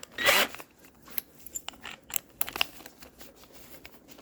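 Hand tools and metal parts being handled: a short rasp about a quarter-second in, then scattered light metal clicks and ticks over the next couple of seconds.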